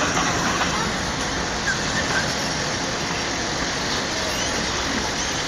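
Freight train passing on the tracks: a steady, even noise of wheels on rail, with a few faint high squeaks.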